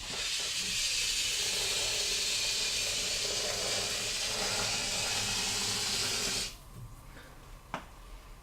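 Aerosol can of expanding waterfall foam sealant spraying: a steady hiss for about six and a half seconds that cuts off suddenly. A single short click follows near the end.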